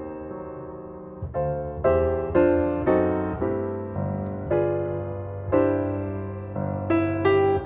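Background piano music: slow, gentle single notes and chords, each struck and left to fade.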